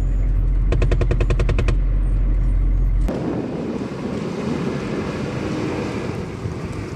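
Machine gun firing one burst of about ten rounds in a second, over a heavy low rumble. The rumble cuts off suddenly about three seconds in, leaving a steady rushing noise.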